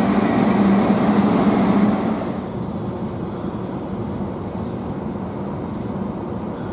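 A train running through the station: a loud, steady hum and rumble that drops off after about two seconds to a quieter, even rumble.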